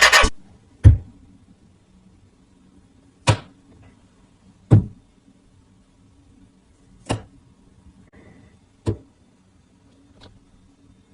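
Six sharp taps or knocks at uneven intervals of about one and a half to two and a half seconds, with quiet between; the last one is fainter.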